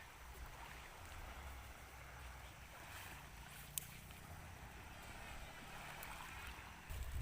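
Faint outdoor water and wind noise: a low wind rumble on the microphone under an even wash of water, with one sharp click about four seconds in.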